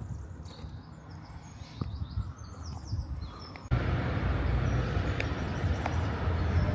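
Outdoor city street ambience: birds chirping over a low hum of distant traffic, then about halfway through an abrupt jump to louder, denser street noise with a heavy low rumble of traffic.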